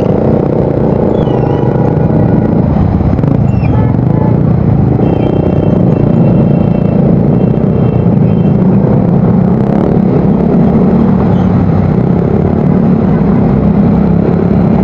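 Yamaha Mio Soul GT scooter's single-cylinder four-stroke engine running steadily while riding, heard loud through its new aftermarket exhaust.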